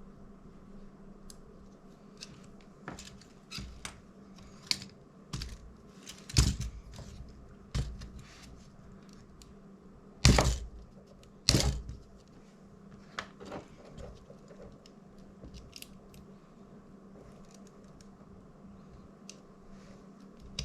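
Small tools prying and scraping at hot glue and plastic inside a DJI Mini 2 drone: scattered clicks and scrapes, with a few louder cracks about a third of the way in and twice more around the middle, as the glued cables are broken loose.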